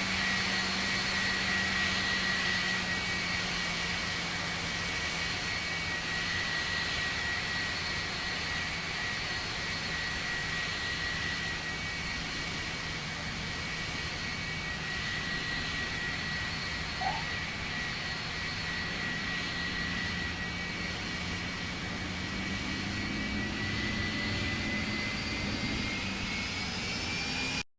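Jet airliner engines running: a steady high whine over a broad rush of engine noise, with a low hum underneath. The whine and hum rise slightly in pitch near the end.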